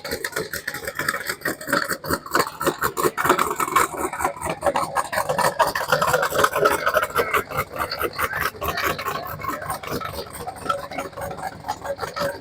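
Car engine with an aggressive camshaft idling with a choppy, uneven lope, a rough pulsing exhaust note that wavers up and down.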